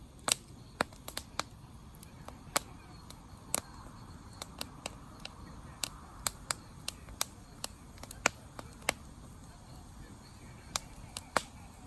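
Wood campfire crackling: irregular sharp pops, about two a second, some much louder than others, over a low steady rush of the flames.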